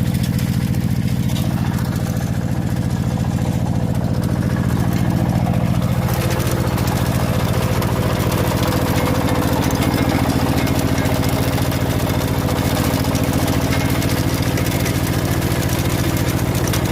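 Small engine of a potato-digging farm machine running steadily. About six seconds in, the sound grows noisier, with a louder hiss over the engine hum, which then holds.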